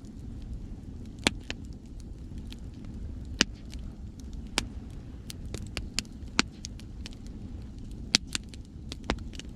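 Wood campfire crackling, with sharp snaps and a handful of loud pops, over a steady low rumble of ocean waves.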